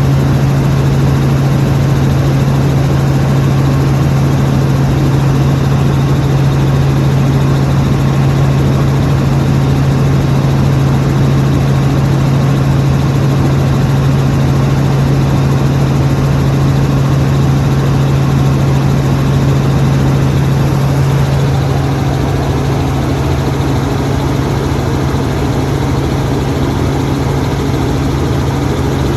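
Helicopter in flight, its engine and rotor running steadily: a strong, even low hum over a broad rushing noise, a little quieter from about twenty-two seconds in.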